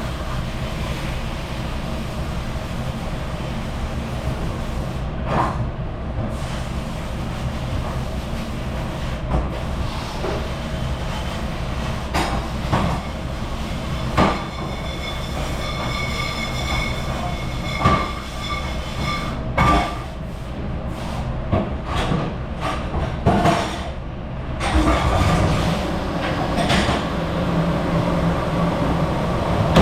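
A commercial dish machine running with a steady low rumble, while dishes and racks clatter and knock against each other, with a few ringing clinks of crockery partway through.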